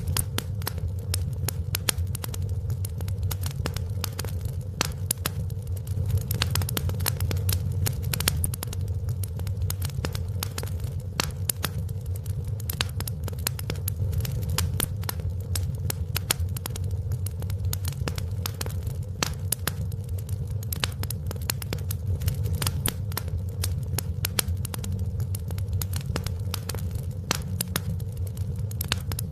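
Wood fire burning in a fireplace: a steady low rumble with many sharp crackles and pops scattered throughout.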